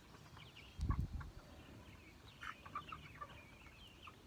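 Cornish cross broiler chickens, about four and a half weeks old, clucking and peeping softly in short scattered calls. A brief low rumble comes about a second in.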